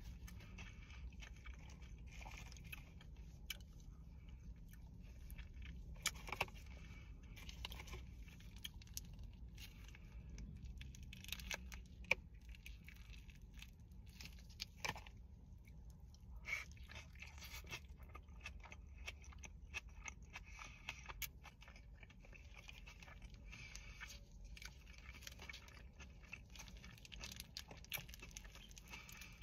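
Close-up eating sounds: chewing and wet mouth clicks on an In-N-Out Flying Dutchman burger, with scattered crackles of its paper wrapper and gloved hands handling the food, over a steady low hum.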